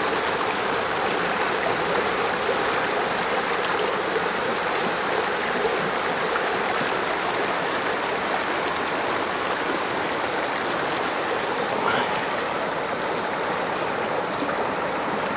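Stream water running, a steady even rush of flowing water.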